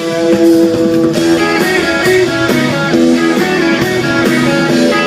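Live rock band playing, with electric guitars picking a moving melodic line over drums keeping a steady beat.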